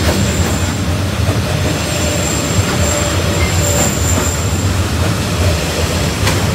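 Passenger train carriages rolling past at arm's length: a loud, steady rumble of wheels on the rails, with a few faint knocks and a thin high squeal that comes and goes.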